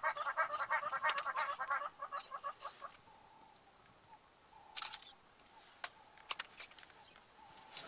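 A bird's fast, rhythmic cackling call that stops about two seconds in, followed by a handful of sharp clicks in the second half.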